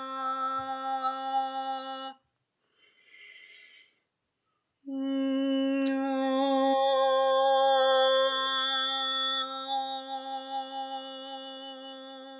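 A woman's voice holding one straight, steady sung note on an open-mouthed vowel as a voice-projection exercise. It stops about two seconds in, a breath is drawn, and the same note is held again for about eight seconds, slowly growing quieter toward the end.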